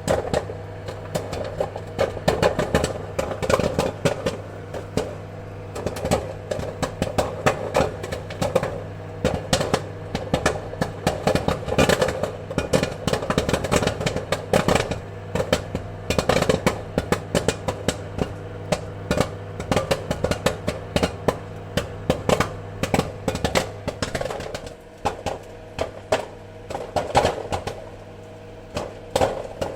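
Popcorn kernels popping in quick, irregular succession, many sharp pops a second over a steady low hum. The pops thin out briefly about three-quarters of the way through, then pick up again.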